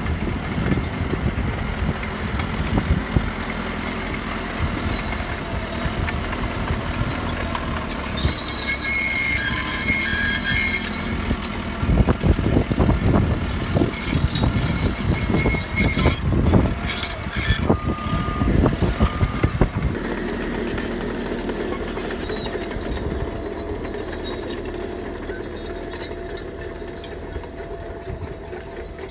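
CAT D3K crawler bulldozer's diesel engine running steadily as it works gravel. From about twelve to twenty seconds in the sound gets louder and rougher, with track clatter and gravel scraping under the blade. A brief high squeal comes a little earlier.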